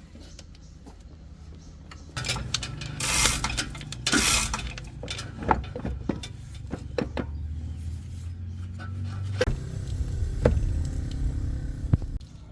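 Scattered metallic clinks and knocks over a low, steady mechanical hum that grows louder about two seconds in.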